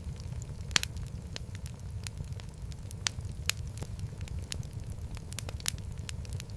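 Wood fire crackling in a fireplace: frequent sharp pops and snaps over a steady low rumble of the flames, with one loudest pop just under a second in.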